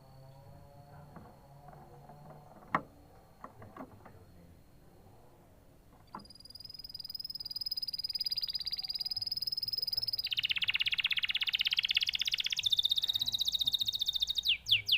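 Domestic canary singing. After a few quiet seconds with small clicks, a fast high trill starts about six seconds in and grows louder. It shifts to a lower trill a few seconds later, then breaks into a quick run of falling notes near the end.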